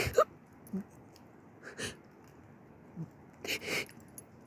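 A woman's breathing: a few short, breathy exhalations, the strongest near the end.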